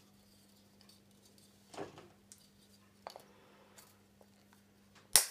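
Iron craft wire being bent and handled by hand: a few faint scrapes and ticks, then one sharp click near the end.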